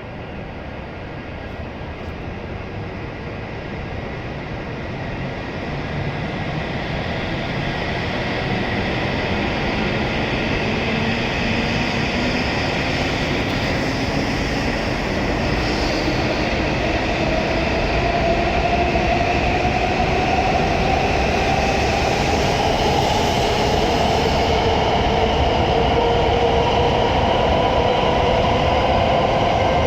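E7-series Shinkansen train pulling out and accelerating. Its traction motors give a whine of several tones that rises slowly and steadily in pitch. The sound grows louder over the first several seconds, then holds.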